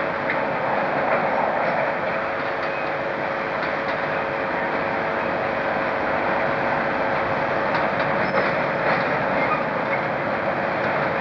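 A freight train hauled by a British Rail Class 47 diesel locomotive passes close by, a steady rail rumble with the wagons' wheels clicking over rail joints.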